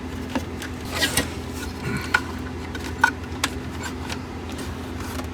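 Scattered light clicks and rubbing of parts being handled and fitted back together while reassembling a water heater power vent fan, over a faint steady low hum.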